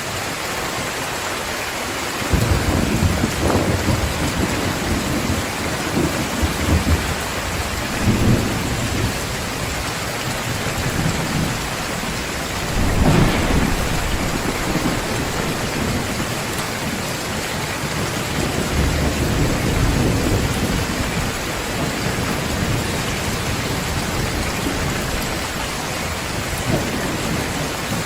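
Heavy rain pouring steadily, with rolls of thunder rumbling through it; the thunder first swells in about two seconds in, and the loudest roll comes about halfway through.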